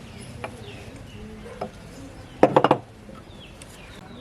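A quick run of about five sharp knocks a little past halfway, with two single clicks before it; birds chirp faintly in the background.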